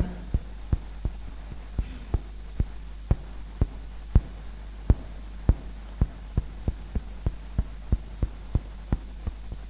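A steady low hum with short sharp knocks or taps repeating about twice a second, slightly unevenly.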